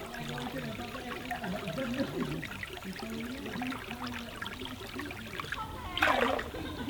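Forest stream running, with a low voice talking quietly over it, and a short loud rush of noise about six seconds in.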